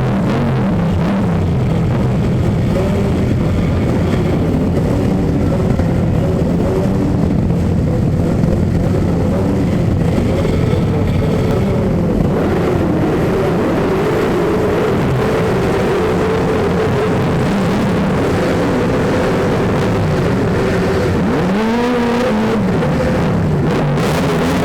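Several motorcycle engines running at low speed, with one revved up and back down near the end.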